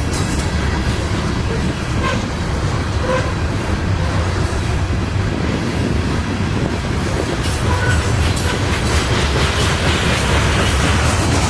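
Norfolk Southern freight train rolling past: a steady rumble of steel wheels on rail, growing a little louder about eight seconds in.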